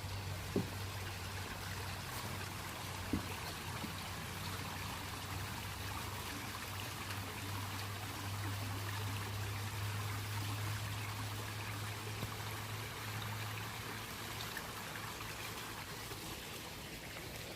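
Steady trickle of flowing water, like a small stream, under a constant low hum, with two faint clicks in the first few seconds.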